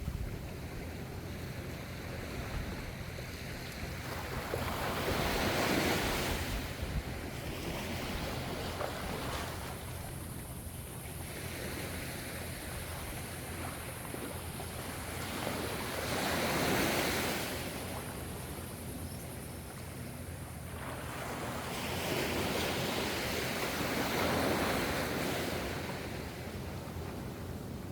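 Gentle ocean waves: a continuous wash of surf that swells three times as waves break and then subsides between them.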